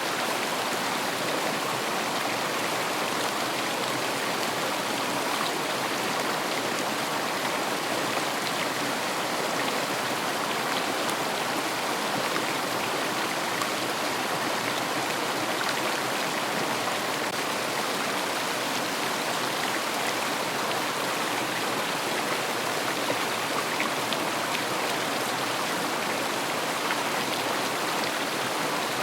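River water running over stones in a steady rush, with fine splashing and trickling.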